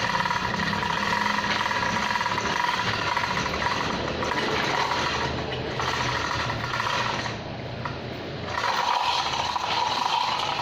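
Machinery running steadily with a constant high whine over a low rumble, easing off briefly about seven and a half seconds in.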